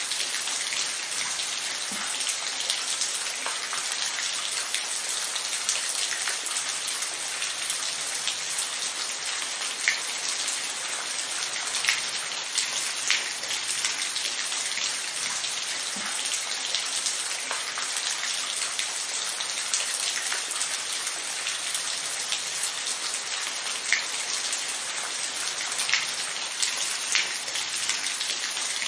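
Steady rain falling: a dense, even hiss with scattered louder drops striking close by.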